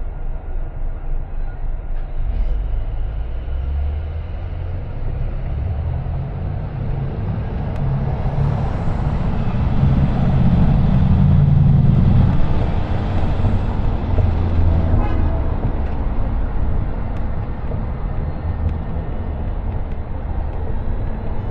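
Car driving on city streets: continuous low road and engine rumble with tyre noise, swelling louder for a few seconds in the middle.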